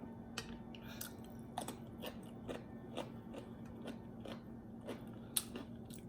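Close-up mouth sounds of a person chewing fried food such as fried plantain and dumpling: soft wet clicks and small crunches at irregular intervals.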